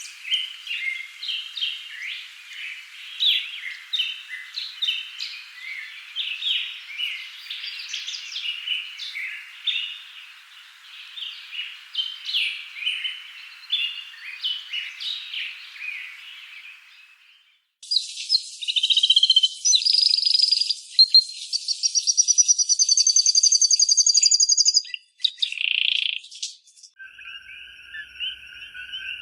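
A busy chorus of small birds chirping many short, quick notes. About two-thirds of the way in, it cuts off abruptly and gives way to high, rapid trilling calls, and near the end a lower pulsed call begins.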